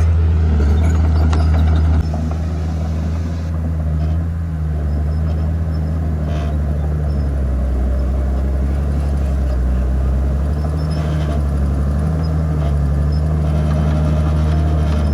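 Heavy diesel engine of earthmoving machinery running steadily under load, its pitch shifting slightly as it works. The level drops a little about two seconds in.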